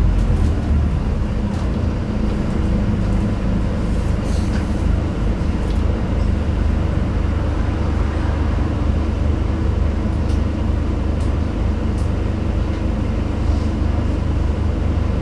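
Scania N250UD double-decker bus heard from inside the top deck, its 9.3-litre five-cylinder diesel running steadily under way with a low hum and road noise. A few light clicks and rattles from the bodywork come through.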